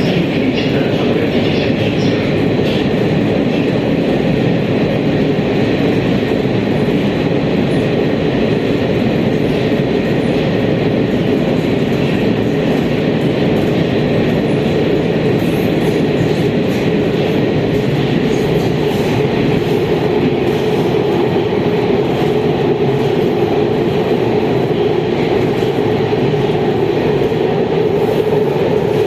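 Metro train running at speed between stations, heard from inside the car: a steady rumble and hiss of wheels on rail and motors. A tone around the middle of the range grows slightly stronger in the second half.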